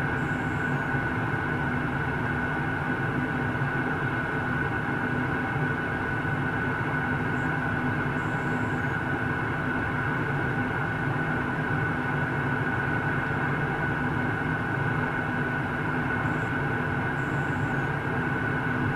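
Steady jet airliner cabin noise in flight: the even rush of engines and airflow, with a steady high whine and a low hum over it.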